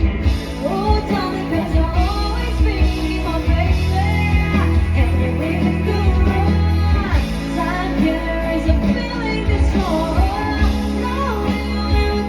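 Live band playing a song: a singer's voice over bass, guitar and drums with a steady beat.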